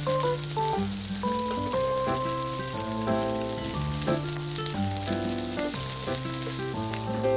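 Egg-battered shrimp sizzling as they fry in oil in a pan, under background music playing a melody.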